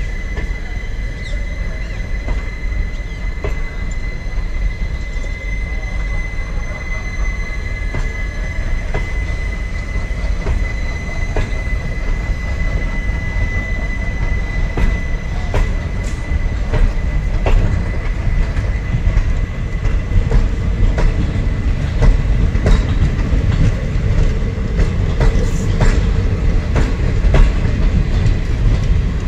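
Passenger coaches of a moving train rolling past on the rails, with a continuous rumble and wheels clicking over rail joints. A thin, steady high squeal from the wheels is heard at first and fades out around the middle. The clicks come more often and the rumble grows louder toward the end.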